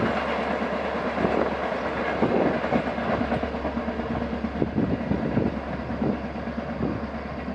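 Rear of a passenger train running away along the track: a steady rumble of the coaches with irregular wheel clicks over the rail joints, easing slightly toward the end.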